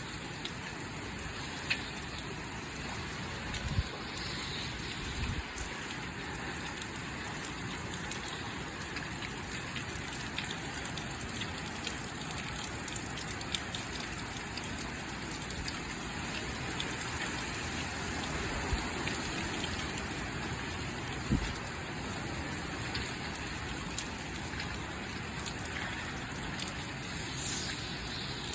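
Heavy hurricane rain pouring steadily onto surfaces, wind-driven, with a few brief thumps.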